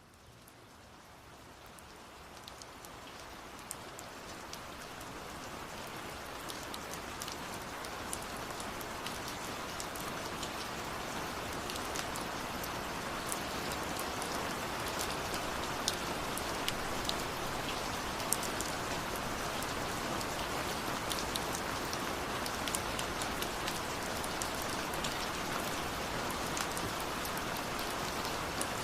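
Steady rain falling, a dense even hiss with scattered sharper ticks of individual drops striking a surface. It swells from faint over roughly the first eight seconds, then holds steady.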